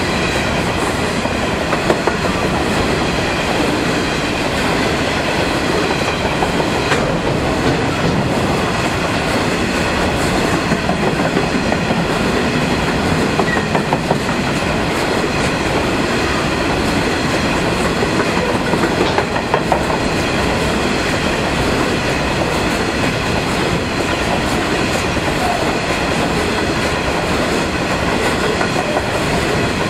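Empty coal hopper wagons of a freight train rolling steadily past, their wheels rumbling and clacking on the rails.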